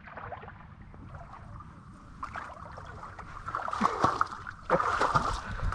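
Jet ski running with water rushing, low at first and building after about two seconds, with a few sharp knocks around the four-second mark, then much louder near the end.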